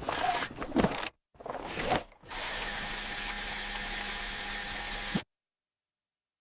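Power drill running steadily for about three seconds after a few short bursts of noise, then cutting off abruptly into silence.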